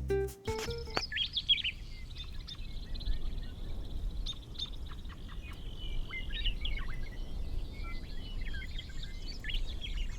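Small birds chirping and twittering in short, quick calls over a steady low rumble. A plucked guitar phrase ends about a second in.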